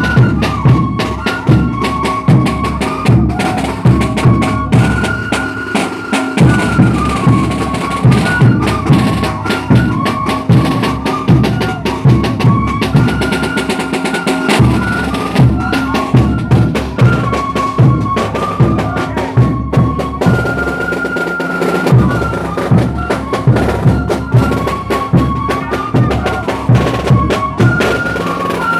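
Traditional Andean folk music: a high, repeating melody over constant drumming.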